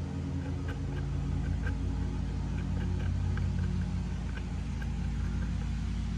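A steady low machine hum, like a motor running in the room, with faint light clicks from small plastic parts being handled while epoxy is spread.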